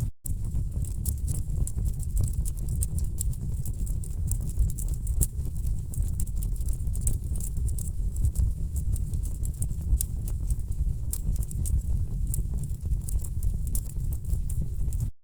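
Wood fire in a fireplace crackling, with rapid irregular pops and snaps over a low, steady rumble of burning logs. The sound cuts out for an instant just after the start and again near the end.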